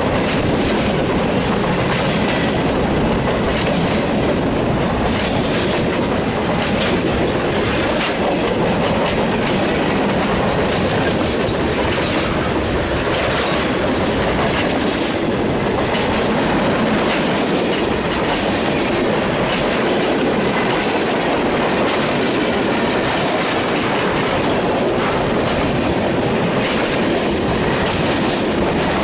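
Freight train cars (tank cars and a centerbeam flatcar) rolling steadily past close by: a constant loud rumble of steel wheels on rail, with irregular clicking and clacking as the wheels cross rail joints.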